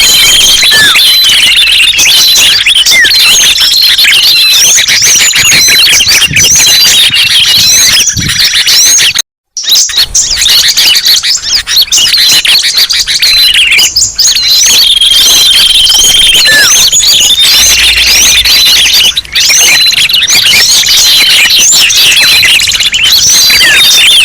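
Dense, loud chorus of many small birds chirping, twittering and whistling at once: a looped bird-lure (suara pikat) recording used to call birds down. It cuts out abruptly for about half a second a little after nine seconds in.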